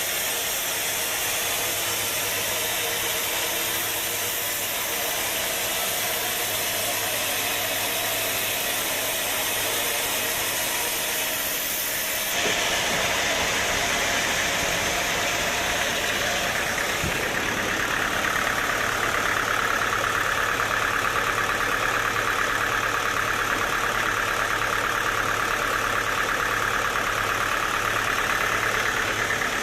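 Sawmill machinery running steadily with an engine-like drone. The sound changes abruptly about 12 seconds in, and from about 17 seconds a higher-pitched steady sound joins and holds.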